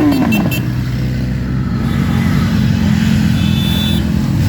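Motorcycle engines running steadily with a low, even hum. One engine's rev falls away in the first half second.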